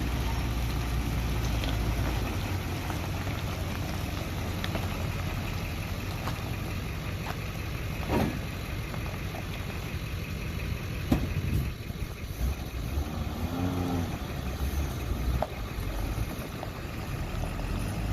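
A 1950 Chevrolet two-ton truck's engine idling steadily, with a few sharp knocks, the loudest about eleven seconds in.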